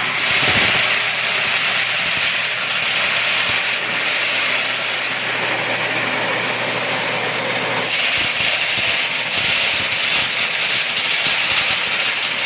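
Candlenut-cracking machine running, a dense steady clatter of many small impacts over a low steady hum, growing louder about half a second in and again around eight seconds in.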